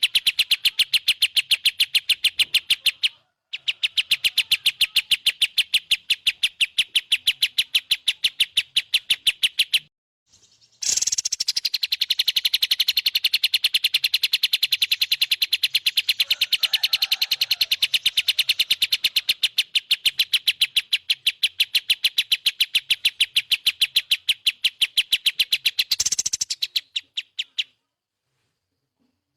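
A songbird's fast, evenly pulsed trill, repeated in long unbroken runs with short pauses about three seconds in and at about ten seconds, stopping shortly before the end.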